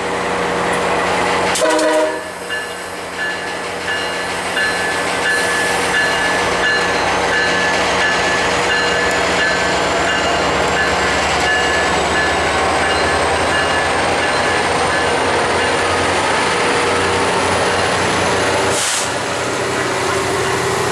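MARC commuter train with a diesel locomotive passing at close range: the engine runs steadily under the rumble of the rolling train, a bell rings over and over, and there is a short horn note about two seconds in.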